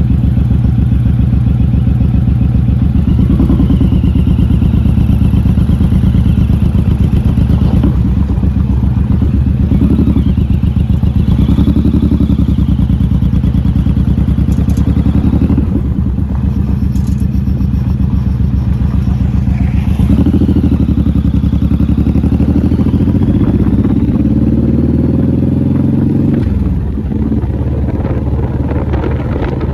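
Motorcycle engine running close to the microphone while riding, steady and loud, its pitch climbing for several seconds and then dropping off suddenly near the end as the throttle is let off.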